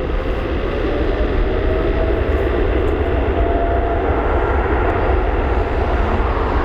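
Boeing 777-300ER's twin GE90 turbofan engines at takeoff thrust: a loud jet roar with a deep rumble and a whine that rises slowly in pitch over the first few seconds.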